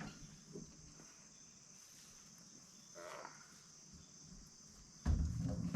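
Crickets chirring steadily in a high-pitched chorus. About five seconds in, a loud low rumble of handling noise cuts in and lasts about a second.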